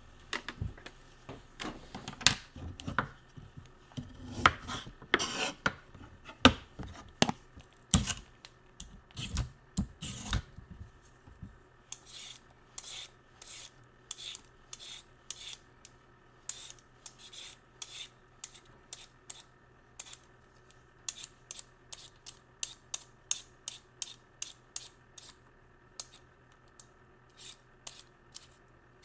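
Kitchen food-prep work: for the first ten seconds or so, irregular knocks and scrapes on a board. After that comes a steady run of short, sharp scraping or cutting strokes, about two to three a second.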